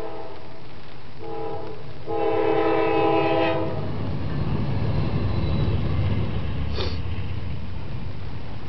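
Norfolk Southern freight locomotive's multi-chime air horn: a long blast ends just after the start, then a short blast and a longer, louder one follow, the close of a grade-crossing signal. Then the locomotive's deep diesel rumble swells as it passes close by.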